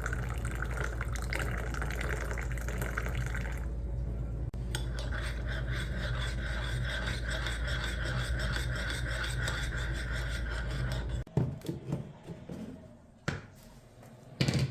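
Water running steadily from a kitchen tap, cut off abruptly about eleven seconds in, followed by a few knocks of dishes.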